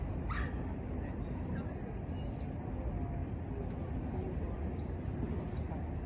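High-pitched animal calls, short arched notes that come mostly in pairs every few seconds, over a steady low rumble.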